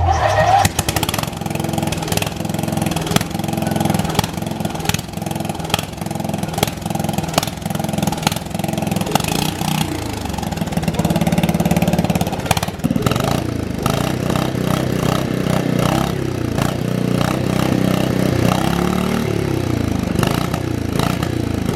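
Small lawnmower engine running, steady at first, then revving up and down repeatedly from about halfway through.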